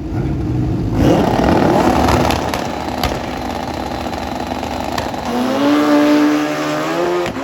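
Drag racing motorcycle engine at full throttle, loud from about a second in. Around five seconds in a second strong engine note comes up, rising in pitch.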